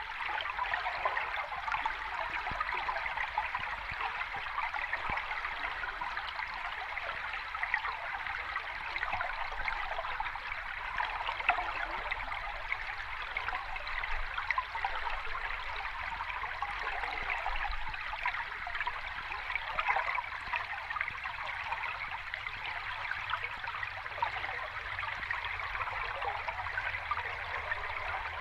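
Sea water washing steadily, a continuous watery hiss with fine splashing detail and no distinct wave surges.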